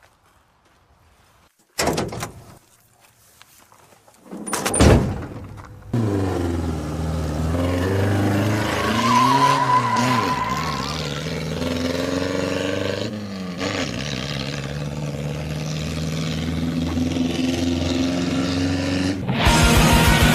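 Two sharp thuds, then a motor vehicle engine running steadily, its pitch dipping and rising for a few seconds. Distorted guitar music cuts in near the end.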